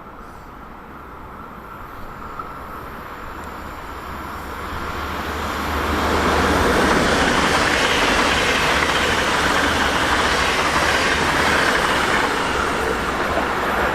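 A train approaching and passing close by: the noise of its wheels on the rails grows from about four seconds in and stays loud to the end.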